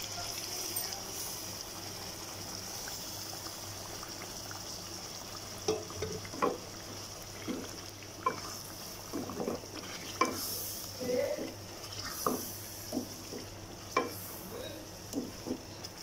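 Chicken and freshly added ground tomato paste frying in oil in a metal kadai, a steady sizzle, while being stirred in. From about six seconds in, the spoon scrapes and knocks against the pan roughly once a second.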